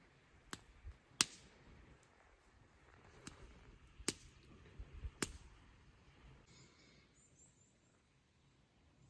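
A handful of sharp, irregular clicks or snaps, five in about five seconds, the second the loudest, with faint high chirps a little after.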